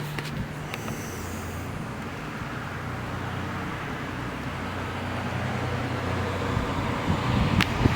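A motor vehicle's engine running with a steady low hum, slowly growing louder, with a couple of sharp clicks near the end.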